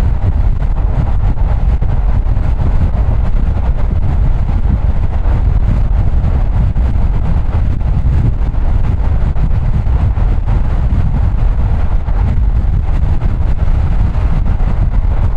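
Steady low rumble of road and wind noise from a car driving along.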